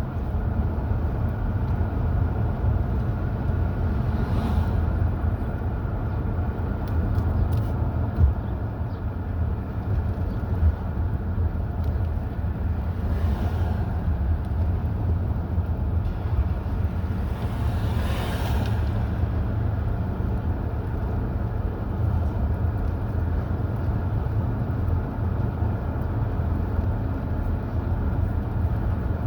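Steady low road and engine rumble of a car driving at speed on a highway, heard from inside the moving car, with three brief whooshes along the way.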